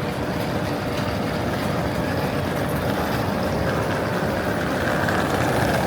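Steady rumble and hum of trains in a railway station, growing slightly louder toward the end.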